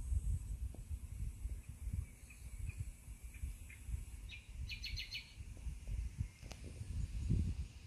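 Outdoor ambience with an irregular low rumble, and a bird chirping: a quick run of repeated notes about halfway through, with fainter single chirps around it.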